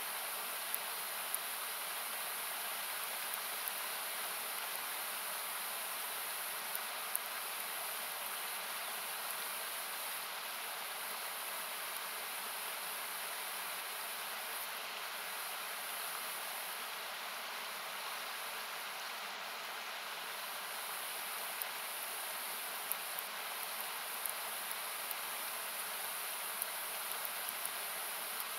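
Steady, noise-like rush of a river, with scattered sharp pops of a wood campfire crackling, more often in the second half.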